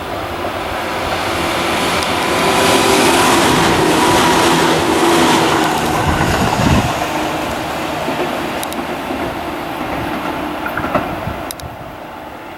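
Tobu 800 series electric train (set 804F) running through a station without stopping, as an out-of-service deadhead. The rail and wheel noise builds, is loudest for a few seconds, then fades and drops away near the end, with some clickety-clack over the rail joints.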